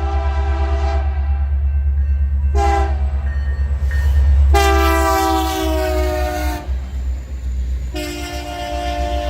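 BNSF freight locomotive's multi-chime air horn sounding a series of blasts, one short among several long ones, over the steady low rumble of the passing train. The pitch of the longest blast sags slightly as it sounds.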